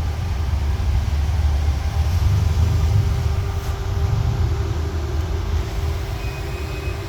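A car engine running with a steady low rumble, joined by a faint steady tone about two and a half seconds in.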